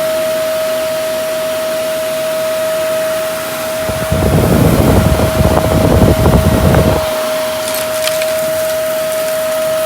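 Vacuum cleaner running with a steady high whine; from about four seconds in, a louder rough, rattling rumble lasts about three seconds, then stops.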